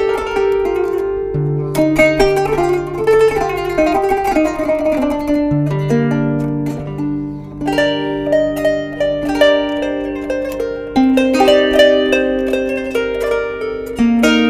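Kanun, the Turkish plucked zither, playing a slow instrumental melody: a continuous run of plucked notes over longer-held low notes.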